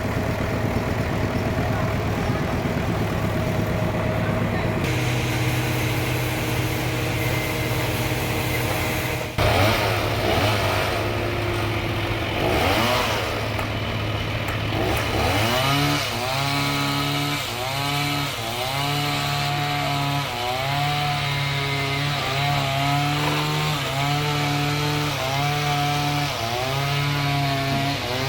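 Sawmill engine running steadily, then the saw working through a trembesi log. From about fifteen seconds in, the pitch swings up and down over and over as the machine takes and sheds load in the cut.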